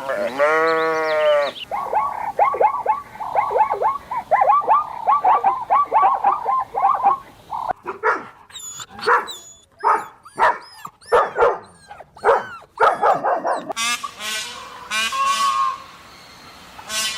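A run of different farm-animal calls one after another: a bleat at the start, then several seconds of rapid, high repeated calls, then short sharp calls, and longer pitched calls near the end.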